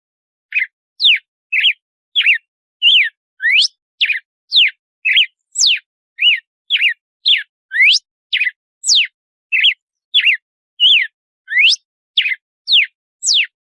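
Red-cowled cardinal (galo-de-campina) singing its 'açoite' song: a fast, unbroken run of loud whistled notes, about two a second, each a quick rising or falling slur.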